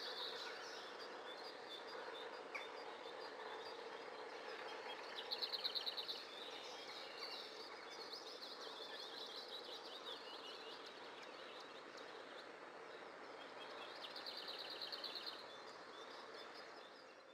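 Songbirds singing over a steady outdoor background, with a rapid, repeated trill about five seconds in and again near the end.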